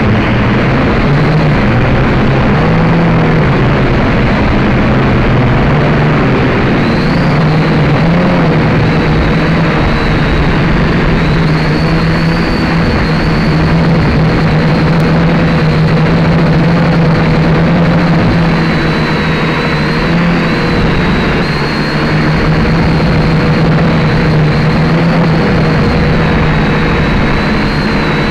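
Syma X5C quadcopter's small electric motors and propellers whirring steadily from its onboard camera, with wind rushing over the microphone. The whine's pitch wavers slightly as the motor speed changes.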